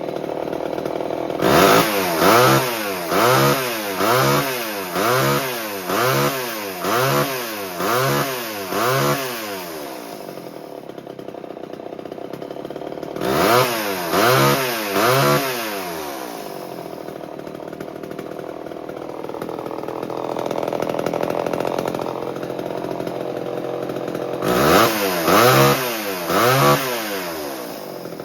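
A 1978 Homelite XL12's two-stroke chainsaw engine running again after years of sitting: it idles and is blipped with the throttle in quick rev-ups. There is a run of about eight revs early on, then two shorter sets of three.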